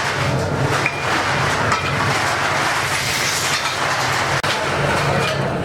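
Workshop noise: a steady machine hum under a continuous clatter, with a few light metal clinks.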